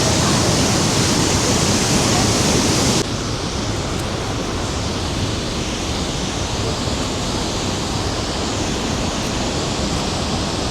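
Rhine Falls waterfall water rushing in a loud, steady wash of noise; about three seconds in it cuts abruptly to a somewhat quieter, duller rush.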